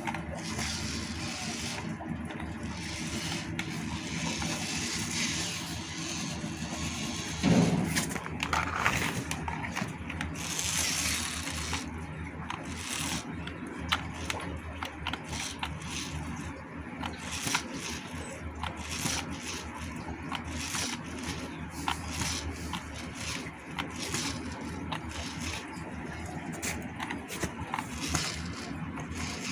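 The small electric motor and gearbox of a homemade RC toy tractor running steadily, with repeated scraping and clicking. There is a louder knock about seven seconds in.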